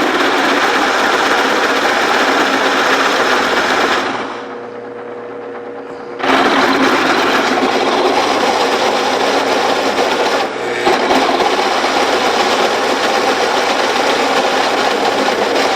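Sears Craftsman drill press drilling into a steel block with a lubricated bit, a loud, steady cutting noise. About four seconds in the cut eases for about two seconds, leaving only the motor's steady hum, then the bit bites again.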